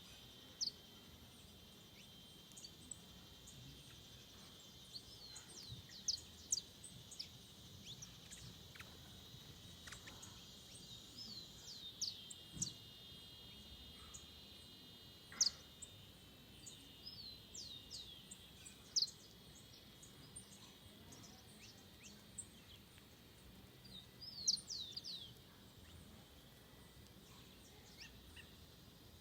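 Forest birds giving short, sharp, high calls that sweep downward, in scattered flurries, over a steady high-pitched hum.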